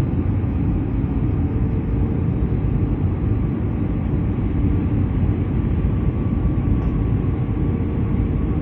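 Strong gusty wind blowing over the microphone as a steady, heavy rumble, drowning out the engines of the departing ANA Airbus A320neo. A faint steady whine runs underneath.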